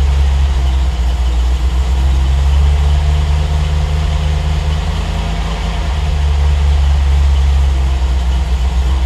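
Triumph TR8's Rover 3.5-litre V8 idling during warm-up after a cold start, its idle swelling and sagging slightly: a mild surge, which the owner puts down to the mixture running a little lean.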